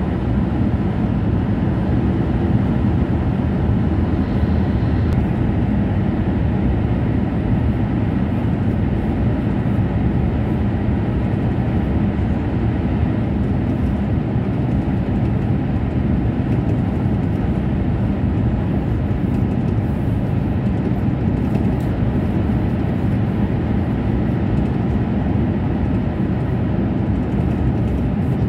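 Steady low rumble and rush of a Tohoku Shinkansen Komachi train running at high speed, heard from inside the passenger cabin.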